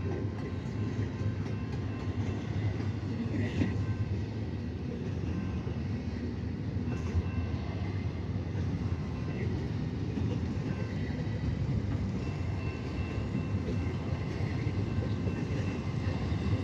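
Container freight train rolling past: a steady low rumble of wheels on rail, with faint thin high tones held above it.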